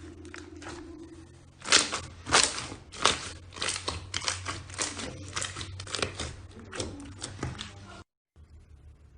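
Slime being pressed and squeezed by hand, giving a series of sharp, loud pops and crackles, about one or two a second, starting about two seconds in and cutting off abruptly near the end.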